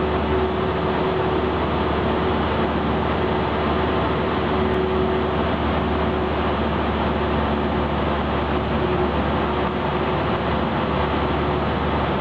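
Cessna 172's piston engine and propeller running steadily, a constant drone with a held tone in it and no change in power.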